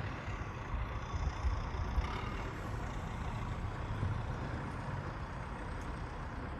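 City snowplow truck's heavy engine running steadily on the street, a continuous low rumble.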